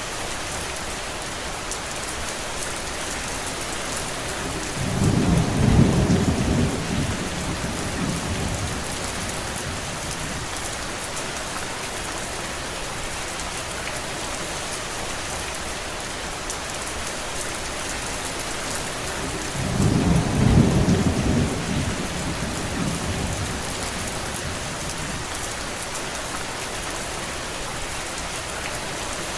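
Steady rainfall hiss, with two low rumbles of thunder, each swelling and fading over about three seconds: one about five seconds in and another about twenty seconds in.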